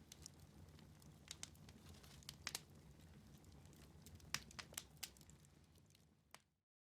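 Wood fire in a fireplace crackling, with irregular sharp pops over a low steady rumble. Near the end the sound fades and cuts out briefly.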